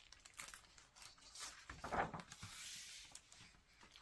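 Faint rustling and soft clicks of paper being handled, with a louder rustle and a brief sliding swish about two seconds in, as of a picture book being opened or a page turned.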